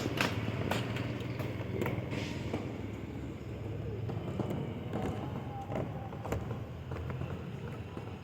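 Steady low hum under scattered knocks and taps of building work with wood.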